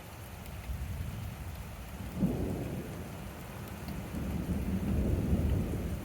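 Thunder rumbling over steady rain: a sharp crack about two seconds in, then a longer, louder rolling rumble that builds and fades near the end.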